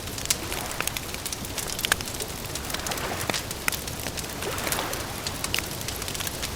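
Wood fire crackling, sharp irregular pops and snaps over a steady hiss.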